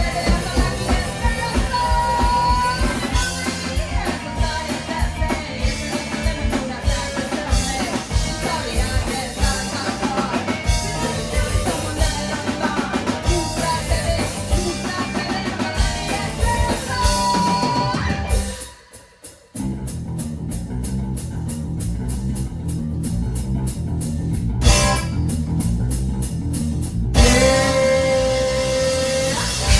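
A live rock band playing, with drum kit, electric guitar and singing. About two-thirds of the way through, the music breaks off for about a second. It comes back as a sparser part led by bass and drums, and the singing returns near the end.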